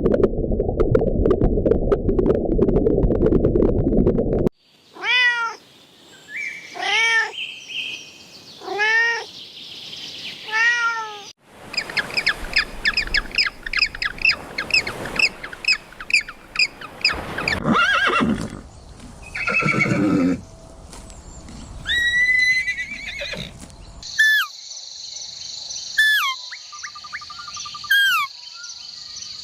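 A run of different animal calls cut one after another. A low, dense rumbling sound lasts about four seconds, then a cat meows four times about two seconds apart. A fast string of short repeated calls follows, and near the end short sliding bird calls sound over a steady insect buzz.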